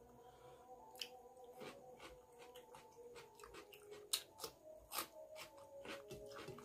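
Close-miked eating sounds: a crisp crunch as a cucumber slice is bitten about four seconds in, then chewing with many short, sharp mouth clicks.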